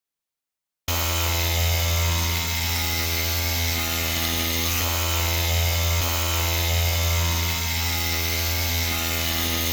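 Motor of a CNC machine tool running steadily, with a strong low hum, even overtones and hiss. It cuts in abruptly about a second in and stops abruptly at the end.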